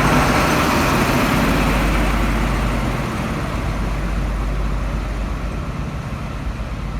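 Class 43 HST diesel power car running, a loud steady engine and train noise with a low hum that slowly fades away.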